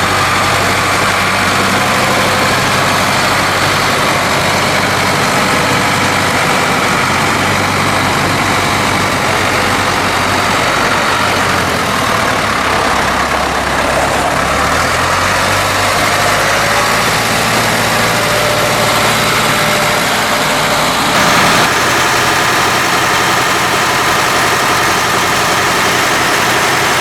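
A 1980 Ford 5600 tractor's four-cylinder diesel engine running steadily. About halfway through its speed drops, then picks up a few seconds later, and it shifts again later on.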